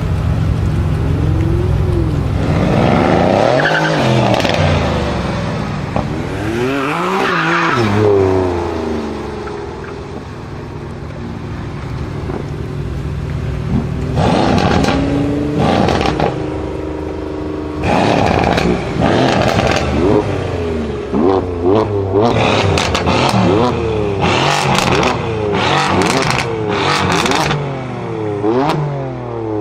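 Mercedes-AMG C63 S Coupe's V8 through a straight-piped exhaust, revving up and falling back a few times. From about halfway it gives a quick series of short throttle blips with sharp cracks.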